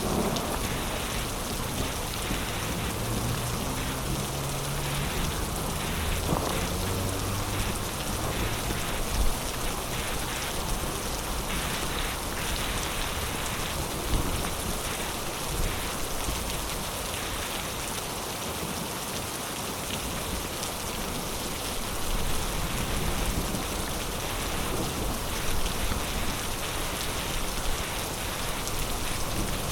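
Heavy rain pouring steadily, with a low rumble in the first several seconds and a few sharper drop hits, the loudest about nine seconds in.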